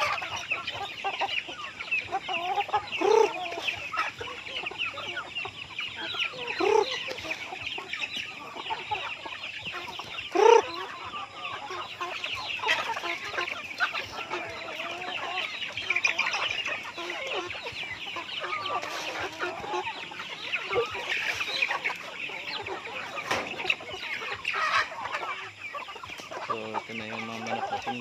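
A flock of free-range native chickens clucking, with a constant chatter of many high calls. Several louder single clucks stand out in the first third.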